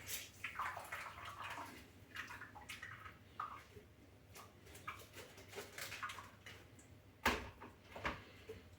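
Faint, irregular liquid sloshing and dripping as blended coconut pulp is squeezed by hand to wring out the coconut milk, with one sharp knock about seven seconds in.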